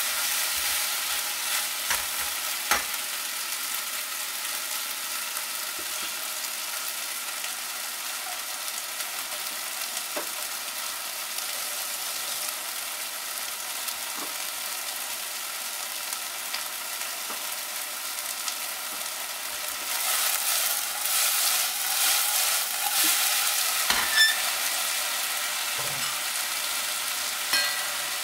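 Chicken pieces sizzling steadily as they fry in a wok, with a few sharp clicks against the pan. The sizzle grows louder about twenty seconds in.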